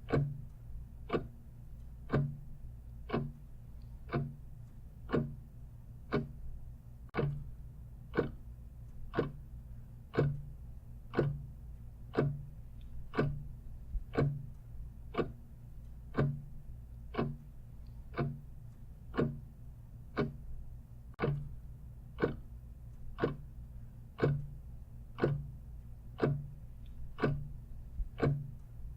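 Clock ticking steadily, one tick a second, over a low steady hum.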